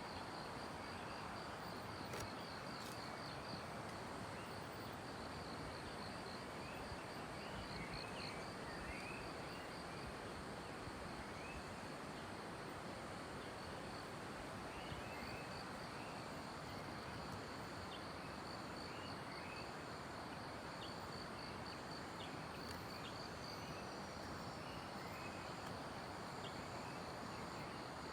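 Hill-forest morning ambience: a steady, high, pulsing insect trill and short bird chirps scattered throughout, over a constant rushing hiss.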